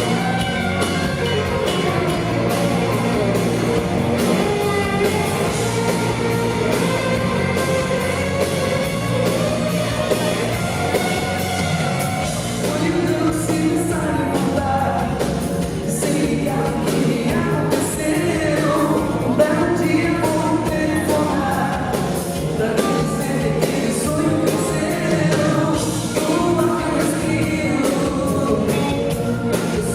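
Live rock band music with singing: a steady drum beat under the band, and a lead voice singing the melody, standing out more from about halfway through.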